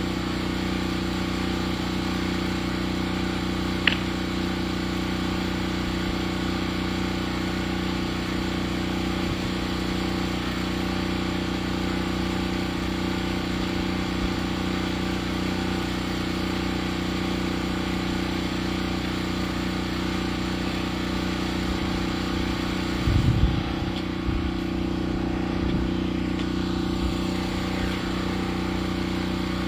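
Sawmill engine running steadily at an even speed, with a sharp click about four seconds in and a few knocks about 23 seconds in.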